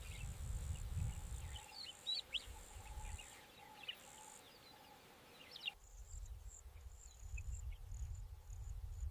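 Faint outdoor nature ambience: a steady high insect trill with scattered short bird chirps over a low rumble. The background changes abruptly about six seconds in; after that the chirps thin out and the trill turns broken.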